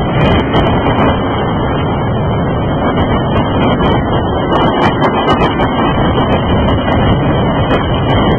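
Intermodal freight train's cars rolling by: a steady rumble and rattle of steel wheels on rail, with scattered sharp clicks.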